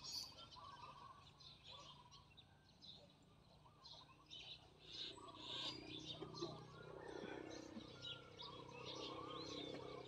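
Faint scattered birdsong: many short chirps and warbling calls from several birds, with no single call standing out.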